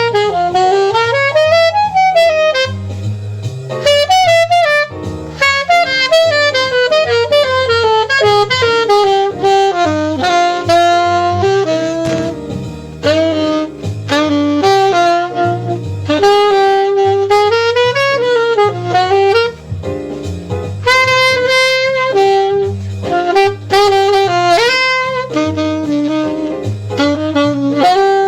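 Saxophone playing a jazz line in quick runs and leaps, with a bass line stepping under it.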